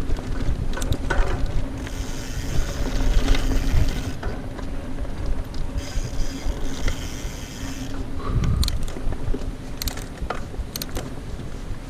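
Mountain bike riding over rough trail: the rear hub's ratchet buzzes while coasting, twice for about two seconds each, over a steady rumble of tyres and wind. A few sharp knocks come near the end.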